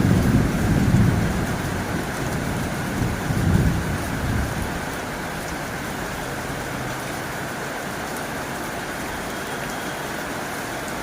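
Heavy rain drumming on a tin roof as a steady, even hiss. Two low rumbles of thunder swell up, one at the very start and one about three to four seconds in.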